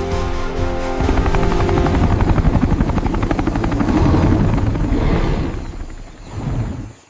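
A rapid, steady chopping throb like spinning rotor blades, fading away over the last couple of seconds, with held music tones under the first second.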